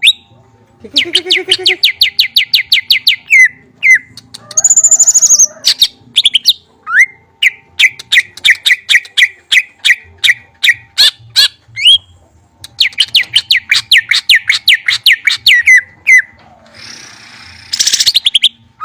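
Songbird singing rapid trills: runs of sharp, evenly repeated chirps, a dozen or so a second, each run lasting two to three seconds with short breaks between them.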